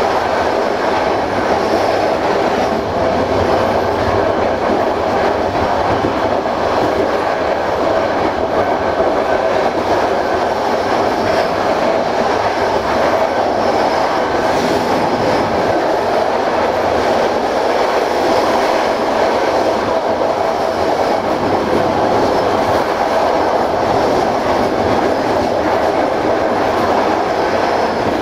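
Passenger train running steadily along the line, heard from the rear of the train: a constant rumble of the carriage wheels on the rails.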